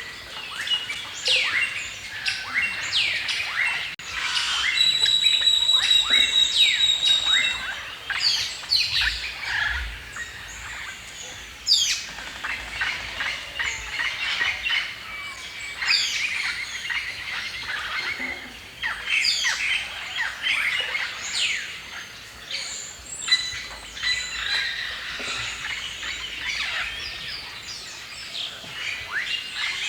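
A chorus of several songbirds chirping and singing at once, with many quick down-slurred chirps overlapping. A high, steady whistled note is held for about three seconds starting about five seconds in.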